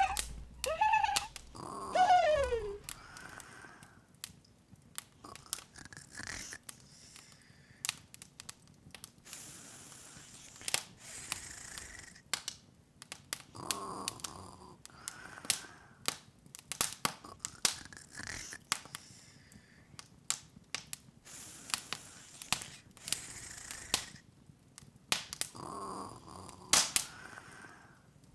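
Open fireplace crackling, with irregular sharp pops and snaps throughout. Short squeaky vocal sounds come in the first few seconds, and a few softer ones later.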